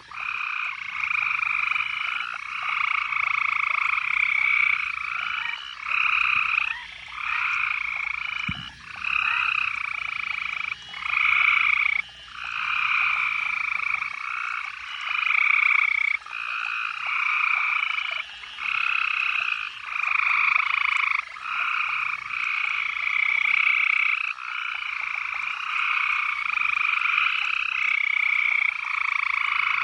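A chorus of frogs calling loudly, with overlapping calls about a second long that repeat with short gaps.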